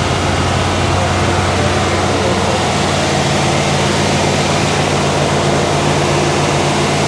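Freshly built 396 big-block Chevy V8 of a 1967 Chevelle SS running steadily during its first run. About two and a half seconds in, a second, higher hum joins the low drone.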